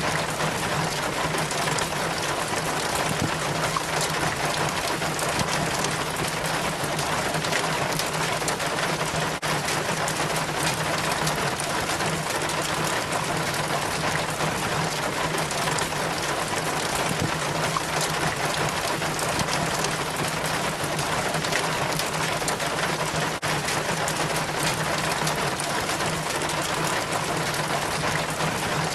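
Rainwater running down a rain chain from a gutter: a steady, dense patter of trickling and splashing drops, with a faint low hum underneath.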